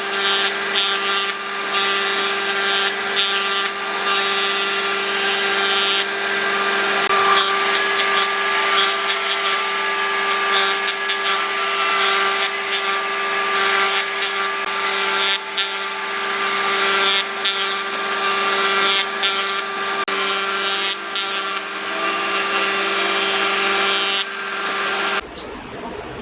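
A handheld electric power tool working wood: a steady motor hum under rough, uneven rasping as it bites into the wood. It cuts out about a second before the end.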